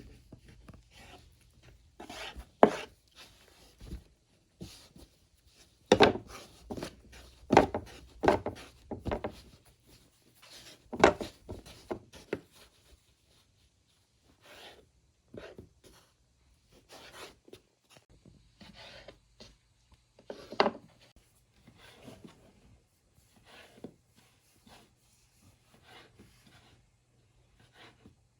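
Irregular knocking and rubbing of wood, as in food preparation on a wooden board, with a handful of louder thumps.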